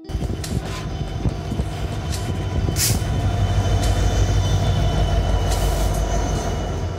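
Alaska Railroad diesel locomotive and train running close by, a loud steady deep engine rumble over rolling rail noise, with a short hiss about three seconds in.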